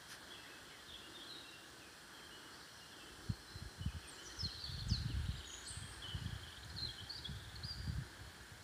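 Small songbirds chirping in woodland over a steady background hiss. From about three seconds in, irregular low thumps and rumbling on the microphone are the loudest sound.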